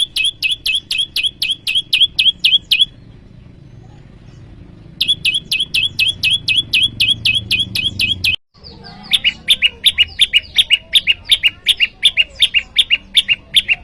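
Prenjak lumut songbird calling with a fast run of sharp, repeated chirping notes, about five a second, in three bursts with short pauses between. It is the challenging call used to draw out rival prenjak.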